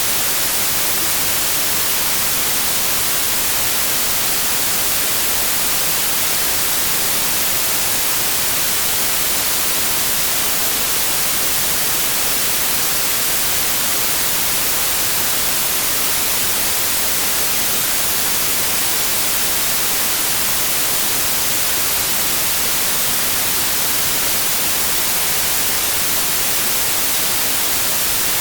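Synthetic white noise: a steady, even hiss with no change or events, its energy weighted toward the high end.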